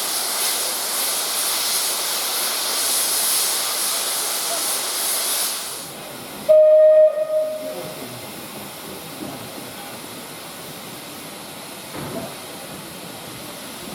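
Steam locomotive hissing steadily as steam escapes, stopping about six seconds in, then one short, loud blast on its steam whistle.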